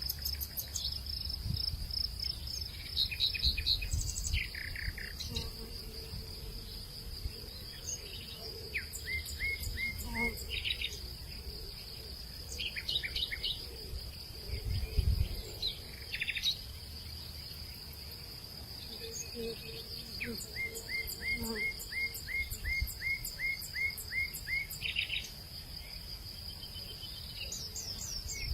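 Hillside nature ambience: a steady high-pitched insect drone with several birds calling over it. One bird gives a rapid run of about a dozen short, evenly spaced chirps, and there are occasional low rumbles.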